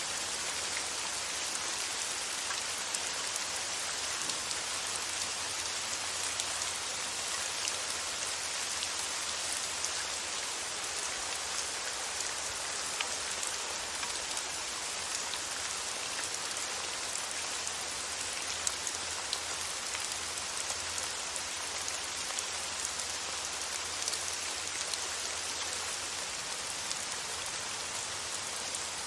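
Steady rain falling on a surface, an even hiss with fine pattering drops throughout.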